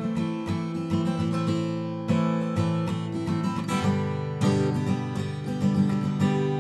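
Acoustic guitar strummed chords, an instrumental break between sung verses, with a strum stroke roughly every half second.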